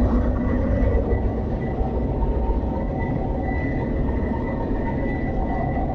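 Ship's engine-room machinery running at sea: a loud, steady rumble from the main engine, generators and auxiliary machines, with a thin, steady high whine over it.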